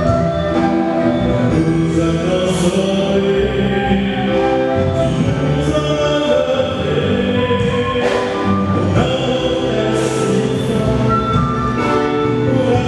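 Parish choir singing with instrumental accompaniment: sustained sung chords over a steady musical backing.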